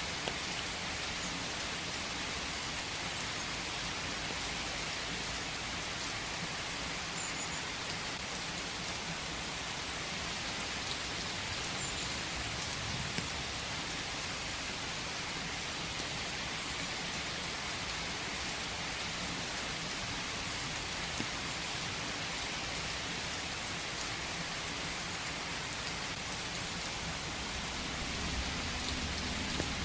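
Steady rain falling in a forest: a continuous hiss with scattered ticks of individual drops.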